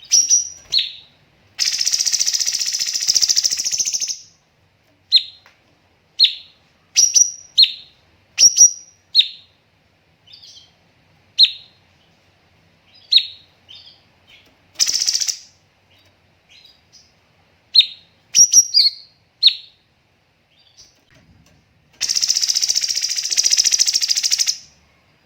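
Cucak cungkok, a bulbul, singing: single sharp chirps with gaps between them, broken by rapid, dense trilled bursts, two of them about two and a half seconds long, near the start and near the end.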